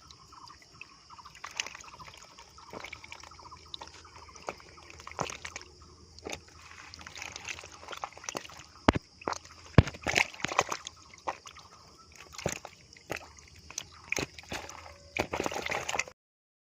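Water sloshing and splashing in shallow water in irregular bursts, louder and busier in the second half, then cutting off abruptly just before the end.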